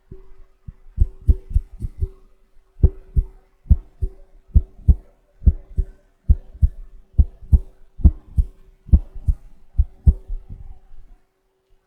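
Shaving brush patted rhythmically in ASMR tapping, giving soft low thumps about three a second, often in pairs, with a faint steady hum beneath.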